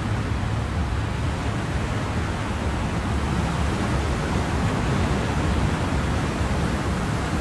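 Ocean surf: a steady, even wash of waves, heaviest in the low end, with no single breaker standing out.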